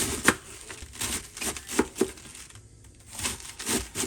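An irregular series of short crinkles and clicks, about a dozen in four seconds: something being handled.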